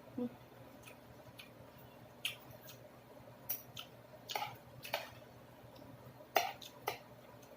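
Close-up eating sounds from chewing chicken and vegetables in sour tamarind broth: irregular wet smacks and clicks, about one or two a second, over a faint room hum.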